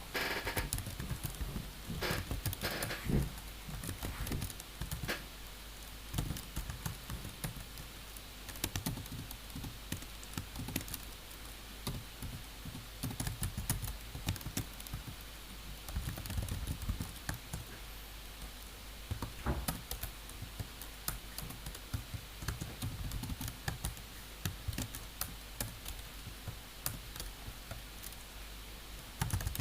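Typing on a computer keyboard: irregular bursts of key clicks, with a few louder rustling knocks near the start. A steady low hum runs underneath.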